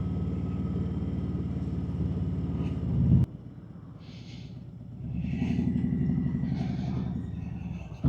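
Harley-Davidson Road Glide's V-twin engine running steadily, rising briefly before it cuts off abruptly about three seconds in. A quieter stretch follows, with a low engine rumble swelling and then fading.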